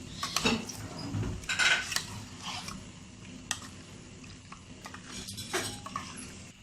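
A spoon clinking and scraping against a bowl, with irregular strokes that are busiest in the first two seconds, as raw chicken pieces are stirred into a yogurt, masala and ginger-garlic marinade.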